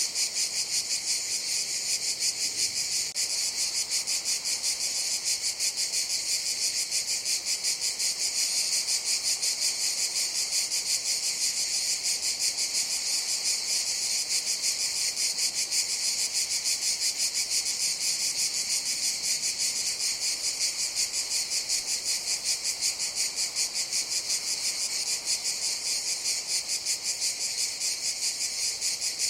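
Cicadas calling in a continuous chorus: a steady, high-pitched shrill with a fast, even pulsing that never stops or changes.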